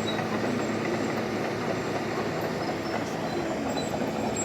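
Liebherr crawler bulldozer's diesel engine running steadily, a constant low drone with rattling mechanical noise over it.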